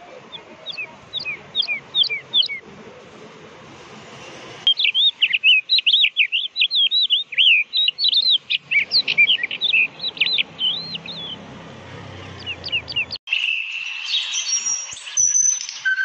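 Songbirds chirping: first a series of quick down-slurred chirps, then a fast, varied song of chirps and trills. About thirteen seconds in, the sound cuts off abruptly and is replaced by a different recording of steadier high whistled tones.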